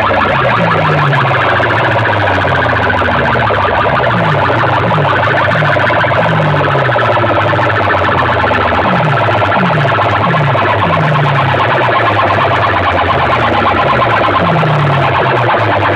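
Very loud, distorted electronic track played through a DJ competition sound rig: a fast-pulsing, alarm-like tone over repeated falling bass sweeps.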